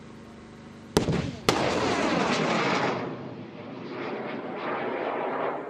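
Anti-aircraft missile launch: two sharp bangs about half a second apart, then the rocket motor's loud rushing roar, which eases and swells again as it goes.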